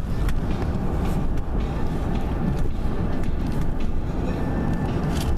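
Steady road and engine rumble inside a moving truck's cabin, with a radio playing faintly underneath.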